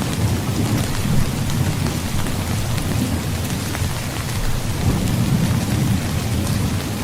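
Steady rain falling, with fine patter of drops over a continuous low rumble of thunder.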